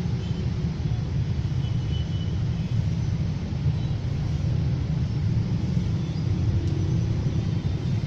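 A train running past, giving a steady low rumble that cuts off suddenly at the end.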